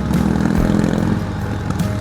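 BMW R18 Classic's big flat-twin boxer engine running steadily as the motorcycle rides along.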